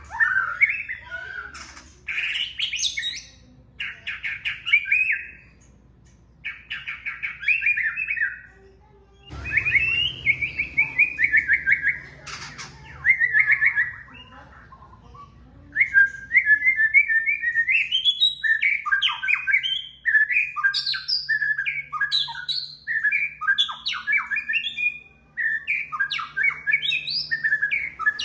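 White-rumped shama (murai batu) singing. Bursts of rapid trilled phrases are separated by short pauses, then about halfway through the song turns into an almost continuous run of varied notes leaping up and down in pitch.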